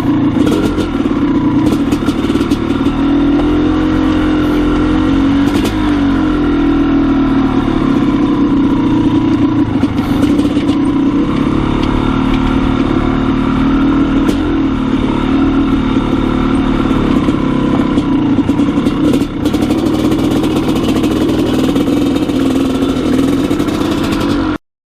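Maico 660 two-stroke single-cylinder dirt bike engine running under way as the bike is ridden, its note rising and falling slightly, with a few knocks and clatter. The sound cuts off suddenly near the end.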